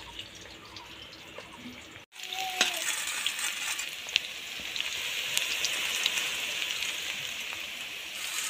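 Sliced onions and bay leaves sizzling in hot oil in a kadhai, with scattered pops from spitting oil; the sizzling starts about two seconds in, after a quieter moment.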